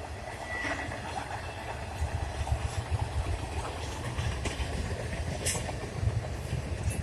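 Freight train cars rolling past at speed: a steady low rumble of wheels on rail with irregular clacks and knocks, and a brief wheel squeal about a second in.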